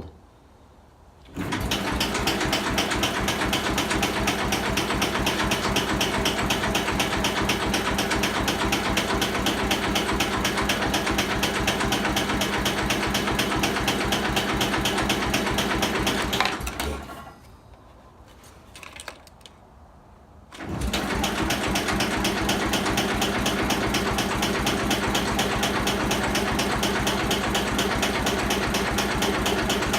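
Sears SS14 garden tractor's electric starter cranking the cold engine in two long tries, a fast even churning that does not catch: the engine is cold and short of fuel from its pulse pump. The first try runs about fifteen seconds, then a pause of about four seconds before the second.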